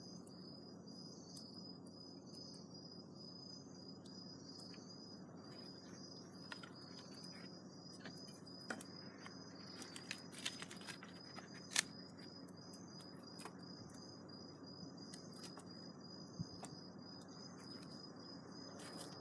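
An insect trilling steadily in a high, rapidly pulsing tone, with scattered sharp clicks and crackles over a faint low hum.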